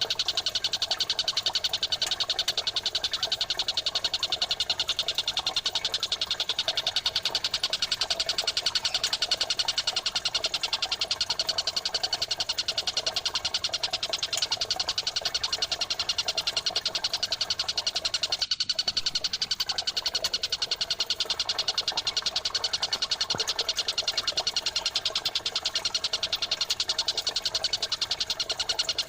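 Birdsong training recording: a fast, dense, unbroken stream of high chirping from kapas tembak and Eurasian tree sparrows, laid over trickling water. The sound drops out for a split second about two-thirds of the way through.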